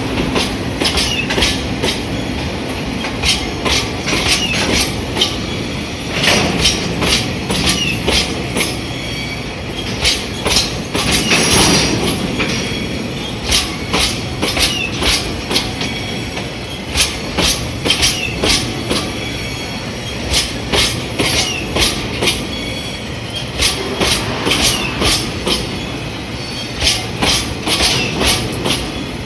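Taki 1000 tank wagons of a slow freight train rolling past, their wheels clicking over the rail joints in repeated groups of sharp clacks over a steady rumble, with brief high wheel squeal now and then.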